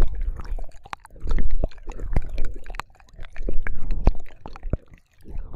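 Wet mouth sounds of ASMR ear licking into a binaural microphone: sticky clicks and smacks over low rumbling swells that come and go in waves every second or two.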